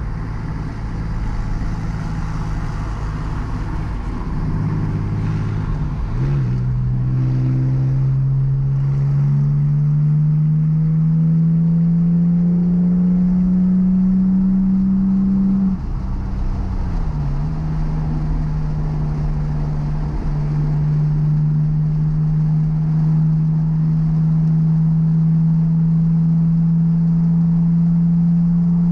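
Porsche 997's flat-six engine heard from inside the cabin under hard acceleration. The pitch steps up about six seconds in, climbs steadily for about ten seconds, drops at an upshift about sixteen seconds in, then climbs slowly again.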